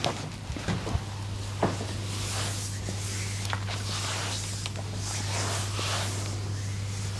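Soft rubbing and rustling that swells and fades in slow strokes about once a second, with a few light clicks in the first couple of seconds, over a steady low hum.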